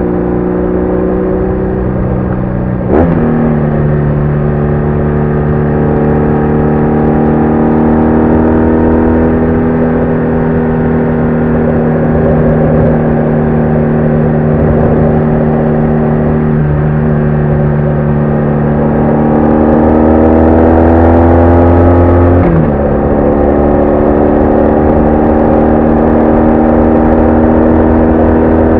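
BMW R1200R boxer-twin motorcycle engine under way: a gear change with a click about three seconds in, steady running, then the engine note rises as it accelerates and drops sharply with another upshift a few seconds before the end.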